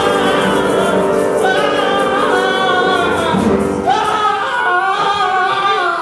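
Stage musical ensemble of female and male voices singing together over instrumental accompaniment.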